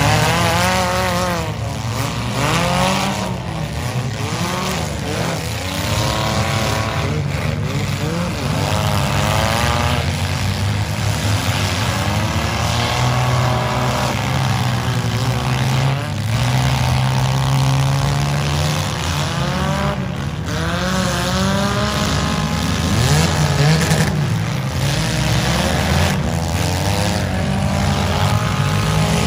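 Several demolition-derby compact cars' engines revving hard together, their pitch rising and falling as the cars charge and push. Now and then a sudden crunch of cars ramming each other.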